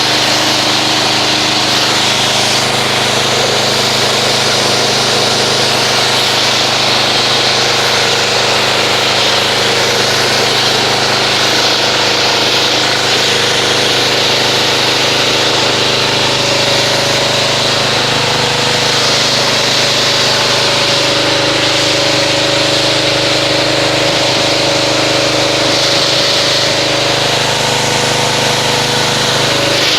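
Pressure washer running steadily, its engine or pump hum under the hiss of the water spray, as foam car-wash soap is rinsed off a car's paint.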